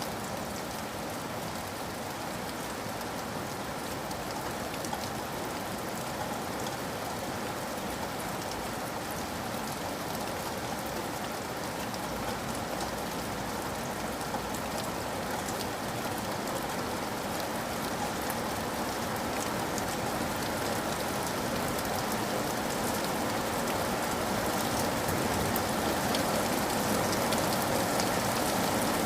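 Steady rain falling as a dense patter of drops on a surface, growing slightly louder toward the end.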